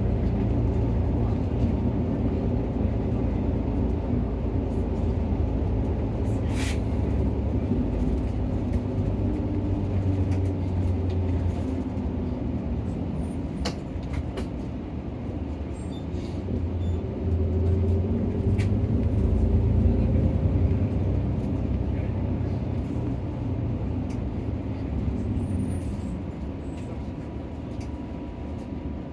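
Nissan Diesel PKG-RA274KAN city bus heard from inside the cabin while driving: diesel engine and drivetrain running steadily, building louder under acceleration about two-thirds of the way through, then easing off near the end. A couple of sharp rattles from the cabin.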